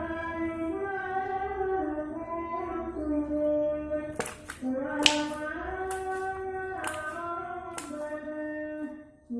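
A high voice singing a slow melody in held notes that step up and down, with a few short hissing consonants.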